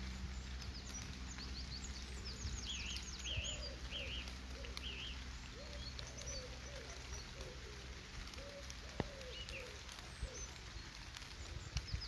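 Several birds calling: quick high chirps and a few two-note whistles in the first few seconds, then a run of lower calls sliding up and down in pitch through the middle, over a low steady rumble.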